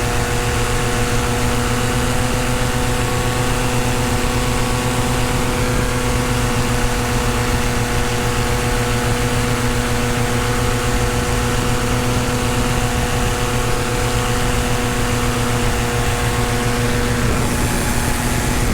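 Tandem paramotor engine and propeller running steadily in flight, holding an even pitch, with air rushing past.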